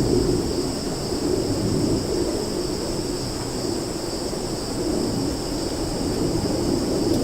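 Summer forest ambience: a steady, high insect chorus of crickets or cicadas, buzzing at two pitches without a break, over a low rushing sound that swells and eases like wind moving through the trees.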